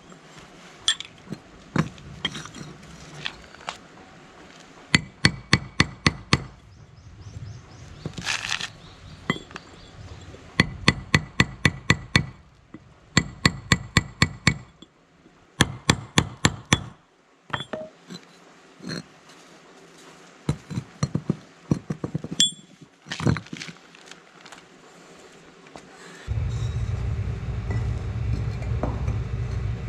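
Runs of quick, sharp ringing taps on something hard, several bursts of about six taps a second with single knocks between them. Near the end a steady low hum begins and keeps going.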